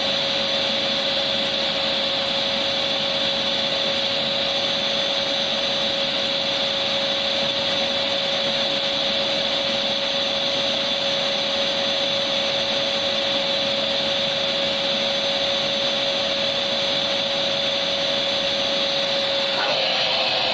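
Electric vacuum cleaner motor running steadily: an even rushing noise with a constant hum and whine. Its tone shifts slightly lower near the end.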